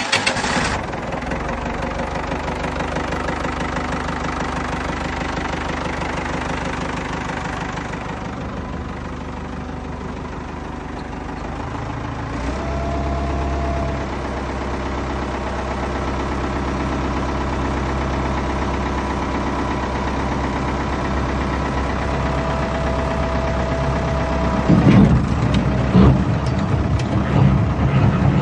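Tractor engine catching with a loud burst at the start, then running steadily at idle. It turns louder and more uneven near the end.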